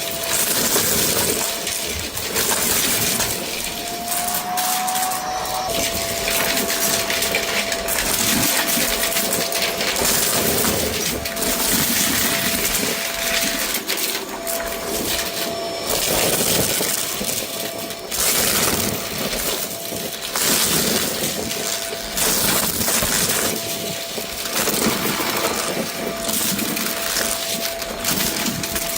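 Vacuum cleaner running with a steady motor whine, pushed back and forth over a rug so the sound swells and eases about every two seconds. Debris scattered on the rug crackles and rattles as it is sucked up.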